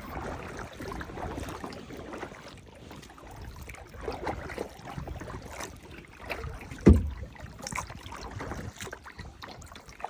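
Paddling a kayak: the paddle splashing and dripping in the water, with small scattered knocks, and one loud thump about seven seconds in.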